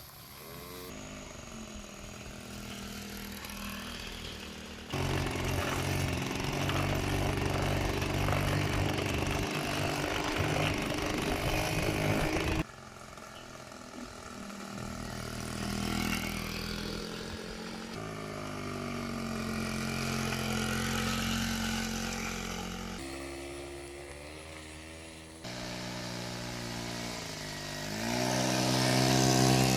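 Honda Express NC50 moped's two-stroke single-cylinder engine running and revving, its pitch rising and falling. It is heard in several short clips cut together, so the loudness jumps abruptly at each cut.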